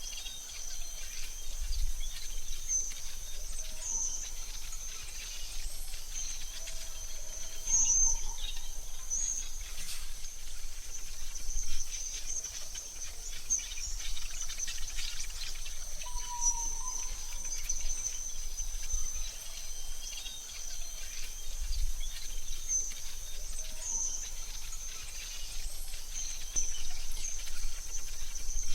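AI-generated forest soundscape: a steady high insect-like drone with occasional short bird chirps over it, and a soft low rumble underneath.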